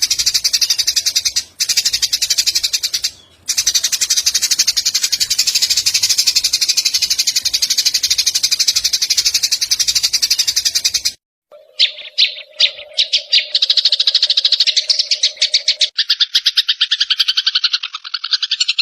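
Fighting Eurasian tree sparrows' rapid, dense, high chattering, mixed with cililin bird song. It breaks off about 11 seconds in. A few sharp calls and a low steady hum follow, then a fast pulsing trill a little lower in pitch.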